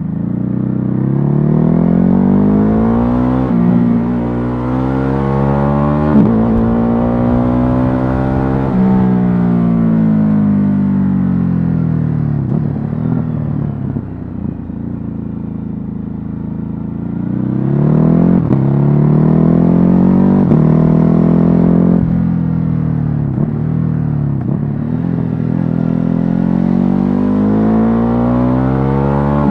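Ducati Hypermotard 950's 937 cc L-twin engine pulling hard through the gears, the pitch climbing with short drops at each upshift. It then rolls off and falls in pitch while slowing, before accelerating again near the end.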